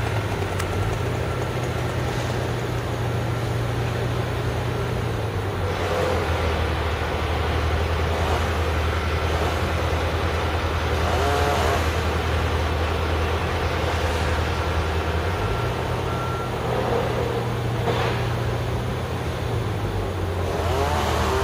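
A large engine of tree-cutting machinery running steadily, its speed dropping and rising a few times, with a couple of sharp knocks over it.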